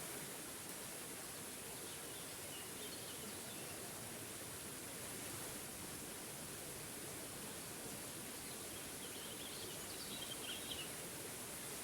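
Steady rush of a small forest waterfall, with a bird chirping faintly twice, briefly near the start and again near the end.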